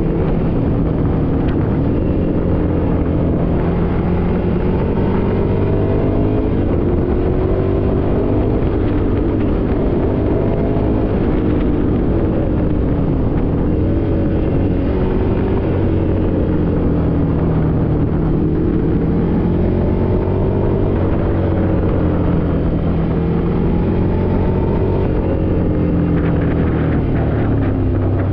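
Ducati Scrambler Desert Sled's air-cooled L-twin engine running under way, its pitch rising and falling several times with the throttle and climbing again near the end.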